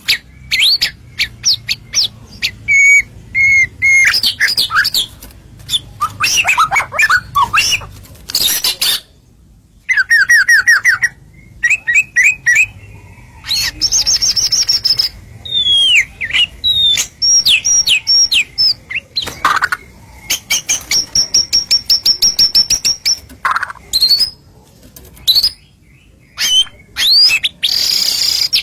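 White-rumped shama (murai batu) singing a long, varied song in full voice: rising and falling whistles, fast rattling trills of repeated notes and sharp clicking notes, in phrases split by short pauses.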